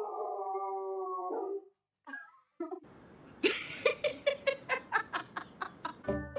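A dog howling in one held note for about a second and a half, then, after a short gap, a quick run of short barks, about four a second.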